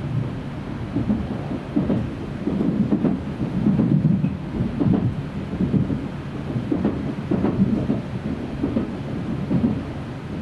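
Running noise of an N700S Shinkansen train at speed, heard from inside a passenger car: a low rumble with irregular heavier thumps about once a second.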